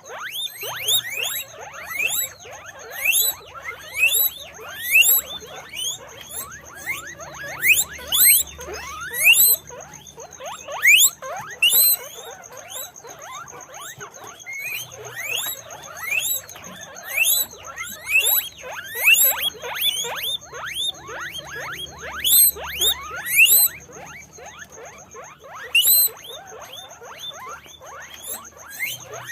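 Guinea pigs squeaking, a constant run of short upward-sliding squeals, often several a second and overlapping. A faint steady high whine runs beneath and drops out briefly about 24 seconds in.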